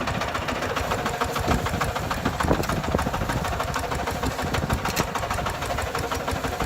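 Kubota RT140 single-cylinder diesel engine of a walking tractor running steadily, a rapid, even pulsing of firing strokes.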